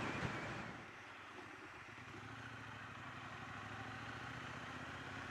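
Triumph Bonneville T120's parallel-twin engine. The engine and road noise fall away about a second in, leaving a steady idle.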